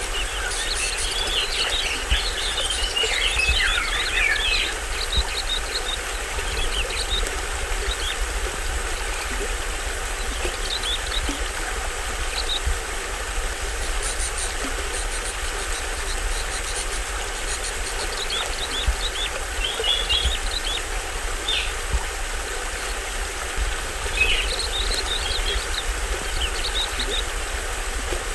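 Small waterfall on a stream running steadily, with forest birds chirping over it: a busy run of chirps in the first few seconds, then scattered calls.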